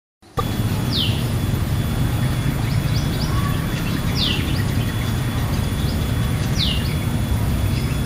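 Outdoor ambience: a steady low rumble and hiss, over which a bird gives a short falling chirp four times, a few seconds apart. The sound cuts in abruptly just after the start.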